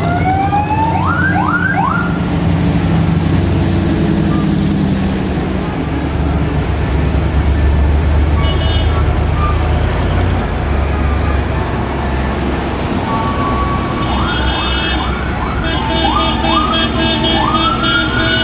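Vehicle siren giving short rising whoops, over a steady low engine rumble that swells in the middle. Near the end comes a longer rising sweep.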